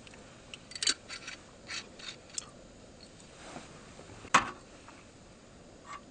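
Small clicks, taps and scrapes of objects being handled, with a quick run of them early and one sharp, loud click about four and a half seconds in.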